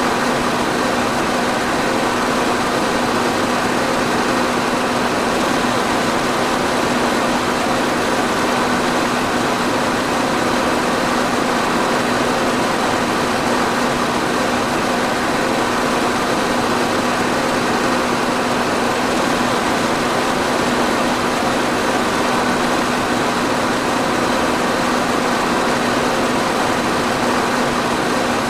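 Electric fan running steadily: a constant rush of air with a steady low hum, unchanging throughout.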